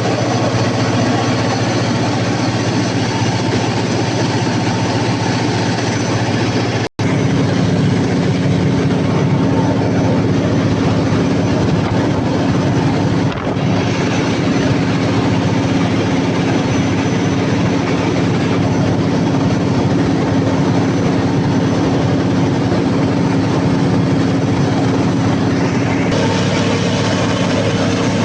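Cummins KTA50 V16 turbocharged diesel generator engine running steadily. The sound cuts out for an instant about seven seconds in.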